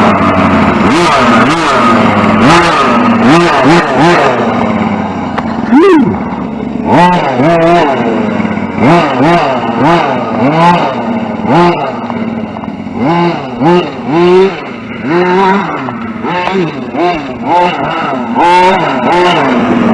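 Electric RC short-course truck's motor whining up and down in quick repeated throttle bursts, many short rising and falling sweeps, over a rough steady hiss.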